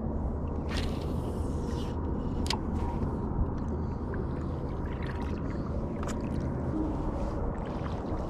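Water gurgling against a kayak hull over a steady low rumble, with a few light clicks and knocks.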